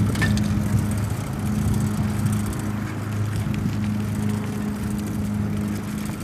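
A small motor running with a steady, even hum, heard over the noise of the ride.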